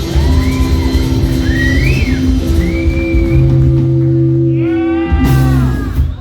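Live rock band playing with electric guitar, sustained chords under gliding high lines. A crash about five seconds in as the song winds down, and the music drops away at the very end.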